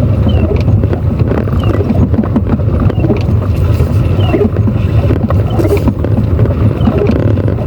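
Car interior noise while driving over a wet, potholed road: a steady low rumble with scattered knocks from the suspension and tyres.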